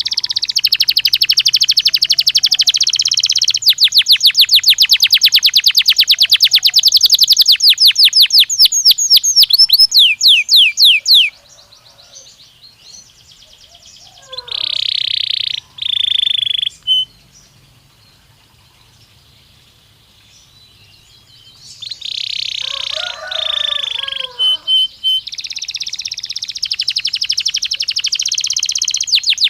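Domestic canary singing: long runs of very fast trills and rapid rolling note series, then a quiet spell of several seconds broken by two short bursts of song, before the fast trills start again near the end.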